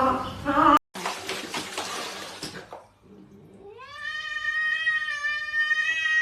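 A cat's long, drawn-out meow that rises in pitch and is then held for about three seconds. It comes after a short stretch of rough noise.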